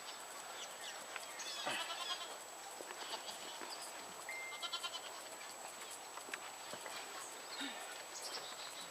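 Faint, scattered animal calls, a few brief ones about one and a half seconds in and again near the middle, among small clicks and rustles.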